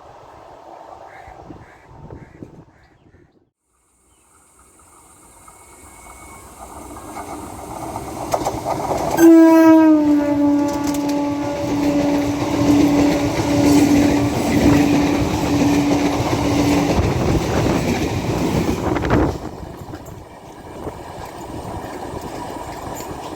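Indian Railways train approaching and passing at speed, its wheels rumbling and clattering. About nine seconds in it sounds one long horn blast that drops slightly in pitch at the start and holds for about eight seconds. The rumble cuts off suddenly near the end.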